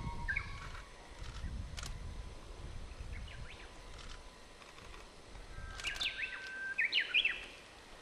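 Short bird chirps and calls: a few about a second in, then a busier run of quick rising and falling chirps around six to seven seconds in, over a low outdoor rumble.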